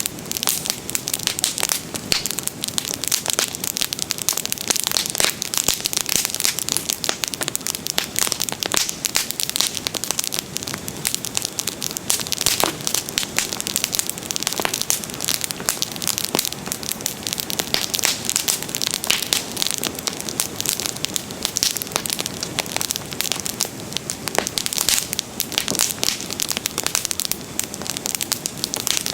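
Wood bonfire crackling steadily, with frequent sharp pops and snaps.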